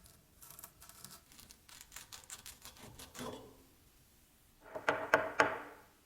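A run of light clicks and scrapes from hard parts being handled, then a louder, ringing clatter about five seconds in that lasts about a second.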